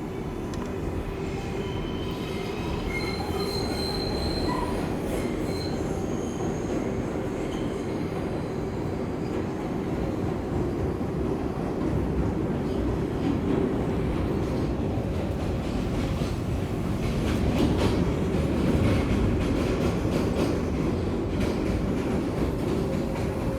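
Inside an R142A subway car running through the tunnel: a continuous rumble of steel wheels on rail under a steady hum. Brief high-pitched wheel squeals come a few seconds in, and rail-joint clicks come later, as the train nears Times Square.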